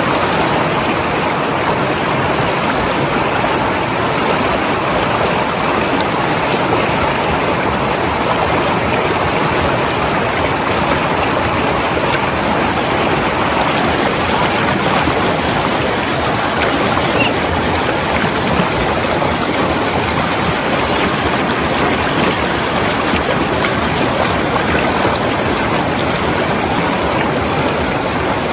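Mountain river flowing over rocks: a steady, even rush of water with gurgling.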